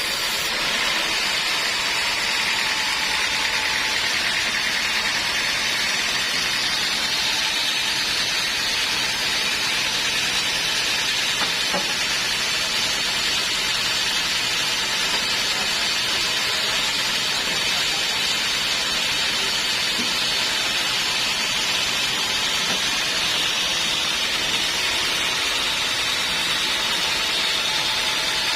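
Homemade band sawmill running steadily, its blade cutting through a teak log with a continuous high hiss.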